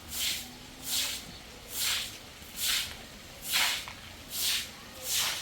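Seven regular swishing strokes, one a little under every second, each a short hiss of under half a second.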